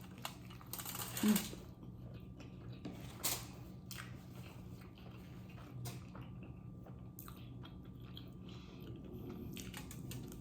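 Close-up eating sounds: chewing and wet mouth noises with scattered small clicks and rustles, a brief hummed "mm" about a second in.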